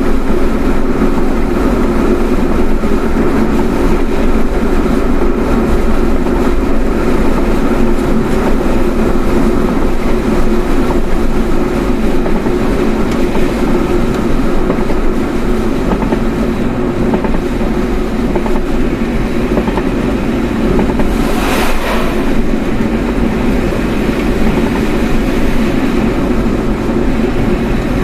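Steady road and engine noise heard from inside a moving car, with a brief rushing sound about three-quarters of the way through.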